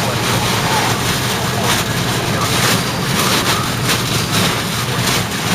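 Steady noise of a vehicle on the move with wind rushing past, at an even level throughout.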